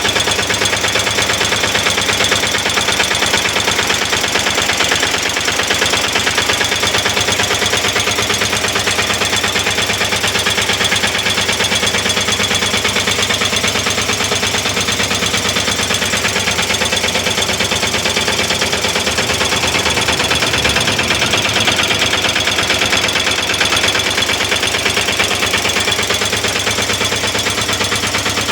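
Bajaj auto-rickshaw's newly built diesel engine running steadily, with a fast, even diesel knock.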